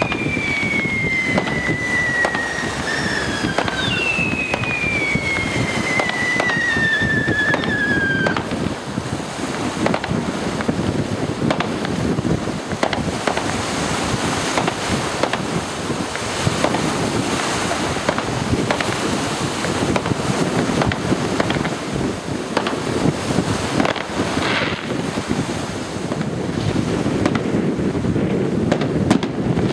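Fireworks display: several whistling fireworks that fall in pitch during the first eight seconds, then many bangs and crackles from bursting shells, over a steady rushing noise.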